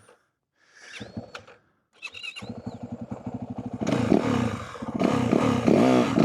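Yamaha WR450F single-cylinder four-stroke dirt bike engine cutting in abruptly about two and a half seconds in, running and revving harder from about four seconds. There is a brief rising rev near the end.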